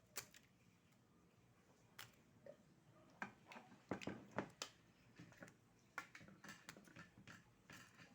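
Irregular light clicks and knocks of oyster shells being handled during eating, with a denser run of them about three to five seconds in.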